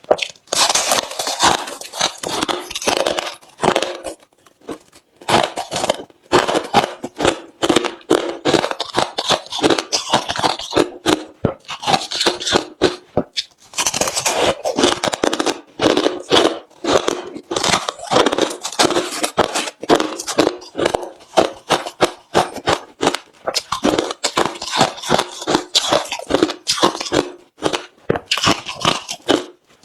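Close-miked chewing of hard refrozen crushed ice: runs of loud, sharp crunching and crackling as the ice cracks between the teeth, broken by short pauses.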